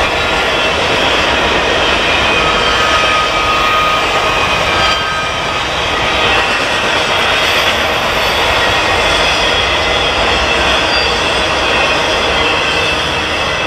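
Intermodal freight train's container and trailer cars rolling over the rails in a steady, loud rush of rail noise, with faint thin wheel squeals at times.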